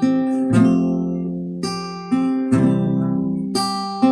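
Acoustic guitar strumming chords, about one a second, each left to ring before the next.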